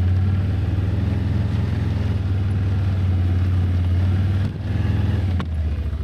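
Can-Am ATV engine running steadily as it is ridden, a low drone. Near the end the engine note dips briefly twice, with a faint click about five and a half seconds in.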